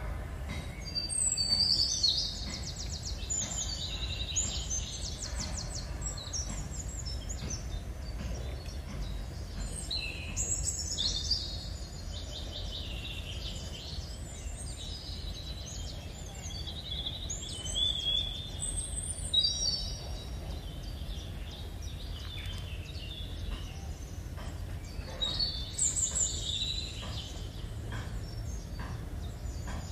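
Birds singing in several bouts of rapid, high chirps and trills, with pauses between them, over a steady low rumble.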